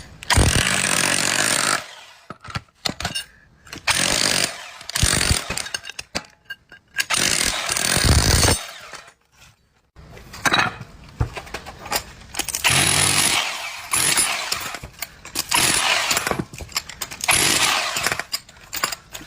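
A power tool running in repeated bursts of one to two seconds, with short pauses between them, while an induction motor is being taken apart.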